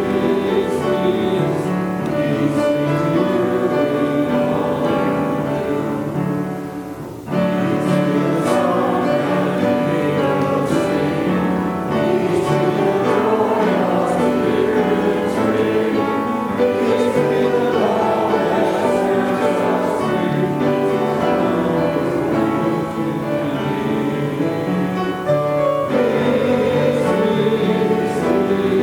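Church music: several voices singing together with piano accompaniment, with a short break in the sound about seven seconds in.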